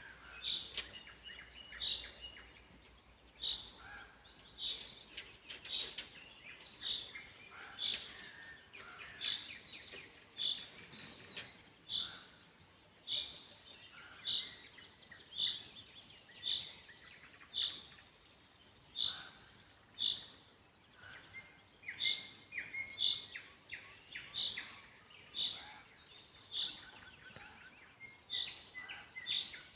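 Birds singing in a morning chorus: one bird repeats a short high note about once a second, while other birds chirp and call among it.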